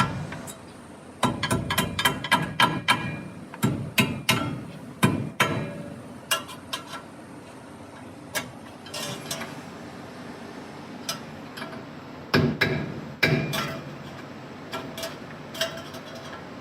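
Hand tools clicking and knocking on metal parts: quick runs of sharp metallic strikes in the first few seconds, then scattered single knocks.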